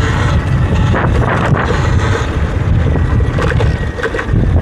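Heavy wind buffeting on the microphone of a moving electric dirt bike, a loud uneven rumble with a few brief knocks.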